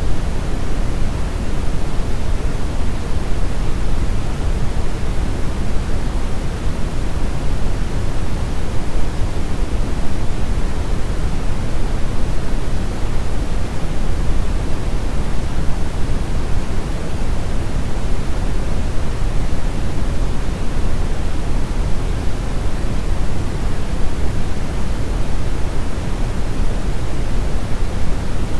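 Steady brown noise: a deep, even rushing hiss, heaviest in the bass and fading toward the treble, with no changes.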